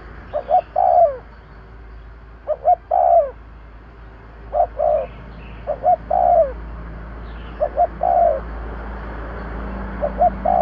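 Spotted dove cooing its song over and over: each phrase is two short coos followed by a longer, falling coo, repeated about every two seconds. This is the male's advertising coo, the call used to draw in and provoke wild spotted doves.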